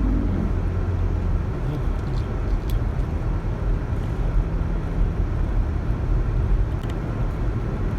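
Car engine and road noise heard inside the cabin, a steady low rumble, as the car creeps slowly along a snow-covered, slippery road.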